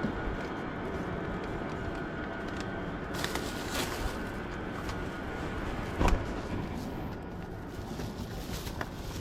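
Steady outdoor rumble and hiss, with a few faint clicks and a single sharp thump about six seconds in.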